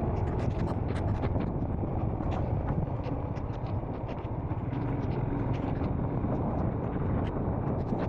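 Royal Enfield Scram 440's single-cylinder engine running at a steady road speed, a continuous low rumble mixed with wind and road noise, with many sharp clicks scattered over it.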